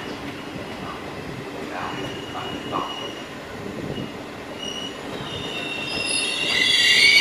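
Italian regional train's passenger coaches rolling slowly past as it brakes to a stop, with a steady rumble from the wheels. Short high squeals come and go, then a loud squeal of several high tones builds from about six seconds in as the train slows.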